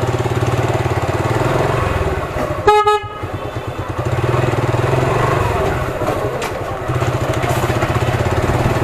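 Motorcycle engine running steadily, its low rumble easing and picking up again, with one short horn toot a little under three seconds in.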